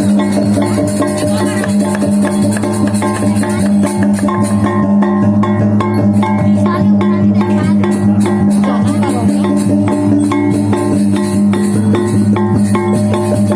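Balinese gamelan music for a barong bangkung: rapid cymbal strokes over tuned metallophone notes and a steady low drone, played at an even loudness throughout.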